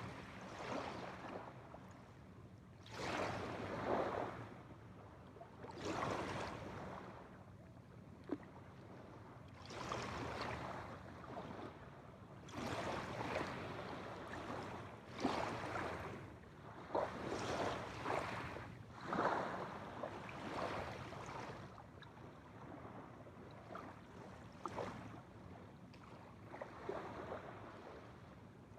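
Small waves washing onto a shore, rising and falling in separate surges every two or three seconds, with a few brief clicks between them.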